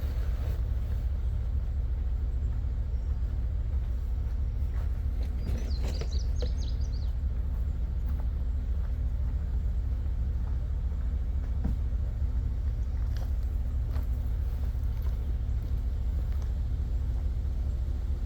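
Truck engine running steadily with a low rumble. A bird chirps briefly about six seconds in.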